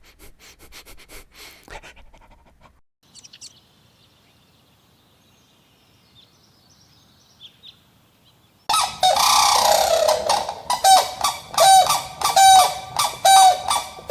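A bird calling loudly and repeatedly: a noisy outburst a little past the middle, then a run of short pitched calls about twice a second. The first half holds only faint clicks and rustling.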